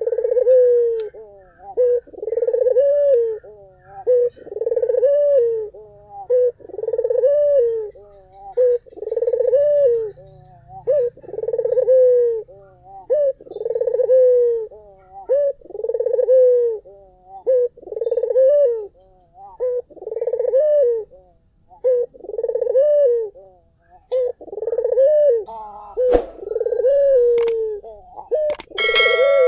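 A Barbary dove (puter) cooing in a steady repeated series, one rising-and-falling coo phrase about every two seconds. A sharp click sounds once about 26 seconds in, and a short high whistle near the end.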